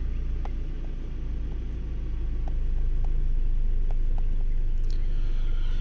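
Replacement four-cylinder engine in a 2002 Toyota RAV4 idling steadily just after starting, with a new upstream oxygen sensor fitted; it sounds like it is running a little better. A few faint ticks sound over the idle, and the sound gets slightly louder about halfway through.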